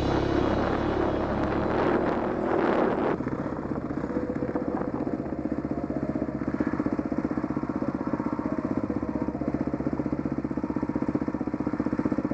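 Dirt bike engine running at low, steady revs with even firing pulses. A louder, denser stretch of sound in the first three seconds cuts off abruptly.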